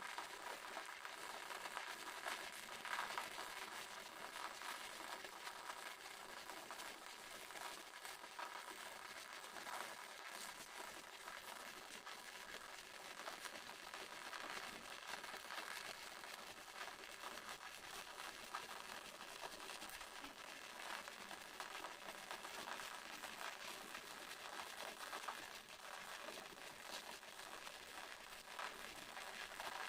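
Waterfall: a faint, steady rush of falling water with fine splashing spatter.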